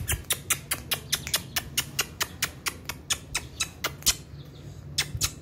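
Birds chirping in a rapid, steady string of sharp, high calls, about six a second, with a short pause about four seconds in.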